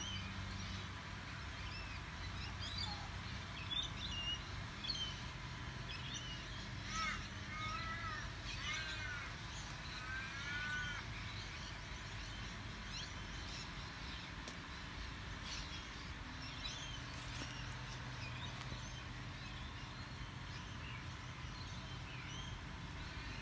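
Birds calling and chirping: scattered short high chirps throughout, with a run of louder arched, up-and-down calls around the middle.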